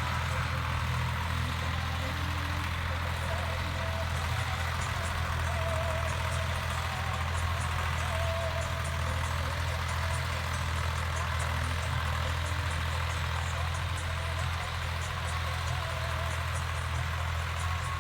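Heavy diesel engine running steadily at an even speed, with a constant low drone and no revving.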